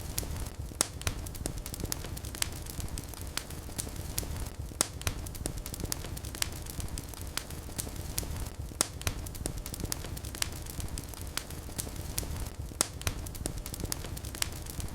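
Wood fire burning in a fireplace: a low steady rumble of flames with frequent irregular sharp crackles and pops.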